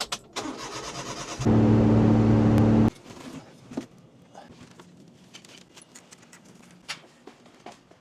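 Small clicks and rattles, then the Honda Acty kei truck's 660 cc engine heard as a loud steady hum for about a second and a half that stops abruptly, followed by faint clicks.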